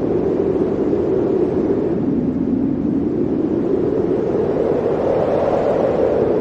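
Blizzard wind blowing steadily, a gust pushing its pitch slightly higher about five seconds in.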